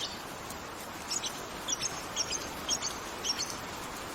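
A small bird chirping, short high notes repeated about twice a second, over a steady background hiss.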